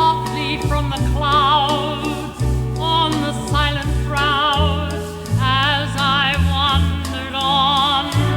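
A woman singing sustained notes with a wide, even vibrato, backed by an orchestra with a stepping bass line.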